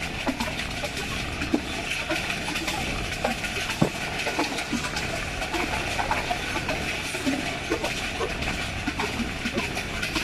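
Passenger train running fast over jointed track, heard from on board: a steady rush of wind and rail noise with scattered wheel clicks and knocks.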